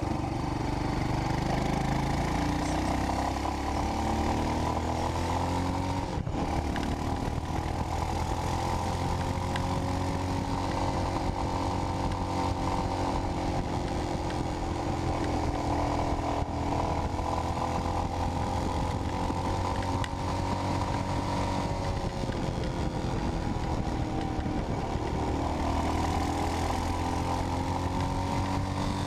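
Royal Enfield Himalayan's single-cylinder engine running through a Red Rooster aftermarket exhaust while riding. It pulls up in pitch with a gear change about six seconds in, then holds fairly steady, eases off and picks up again near the end.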